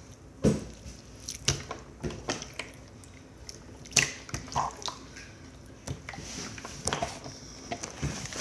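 Slime being squeezed and stretched by hand: irregular wet squelches and sharp little clicks and pops, the strongest about half a second, a second and a half, and four seconds in.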